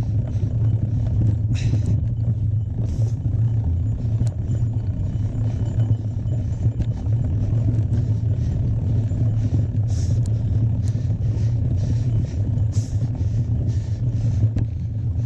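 Steady low wind rumble on the microphone of a camera carried on a moving mountain bike, with scattered light clicks and rattles.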